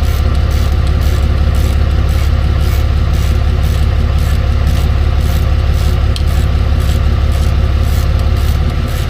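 Tow truck's engine idling steadily, a constant low hum with no change in speed.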